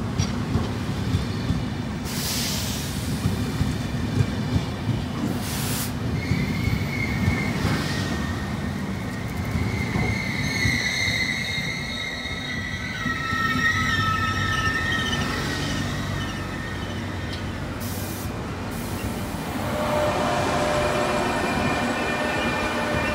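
Frecciargento high-speed trainset running past along the platform: a steady rumble of wheels on rail, with a few short hisses and squealing tones in the middle. Near the end a second electric train, hauled by an E402B-type locomotive, passes on the next track with a steady whine.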